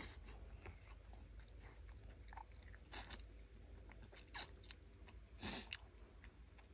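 A person eating: faint chewing and mouth sounds over a mouthful of braised chicken, with a few short louder smacks about three, four and a half, and five and a half seconds in. A steady low hum runs underneath.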